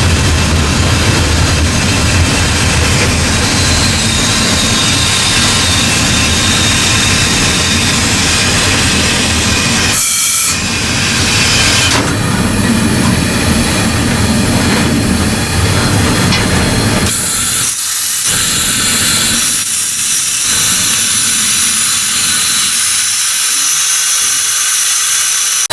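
Cab noise of steam locomotive Ww 644: a loud, steady hiss of steam over a low running rumble. The rumble drops out briefly a few times and fades over the last few seconds, leaving mostly the hiss.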